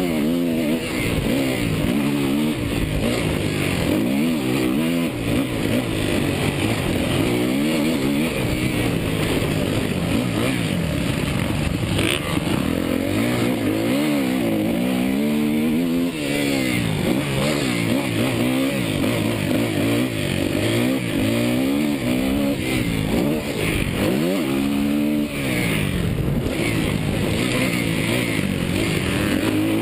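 Suzuki motocross bike engine being ridden hard, the revs climbing and dropping again and again as the throttle is opened and shut, with rushing wind noise.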